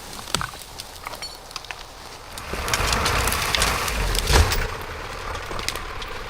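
Wood cracking and snapping, then a rising rush ending in one heavy thump about four and a half seconds in, as a felled tree comes down; an engine keeps idling steadily afterwards.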